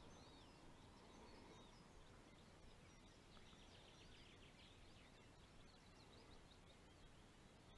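Near silence with faint birdsong: scattered chirps and a rapid trill a few seconds in.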